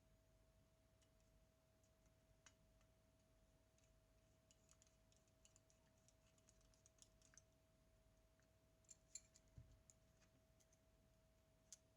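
Near silence: a faint steady tone, with scattered faint small clicks, a run of them in the middle and a few sharper ones later.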